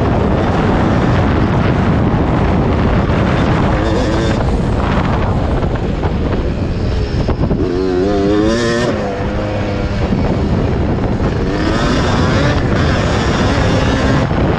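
Two-stroke engine of a 1991 Yamaha WR250 dirt bike revving hard under race riding, its pitch rising and falling, heard from on board over heavy wind noise.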